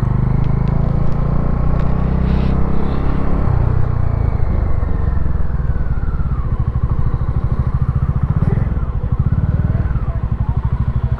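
Motorcycle engine running at low speed, then idling with an even, rapid pulsing beat during the second half.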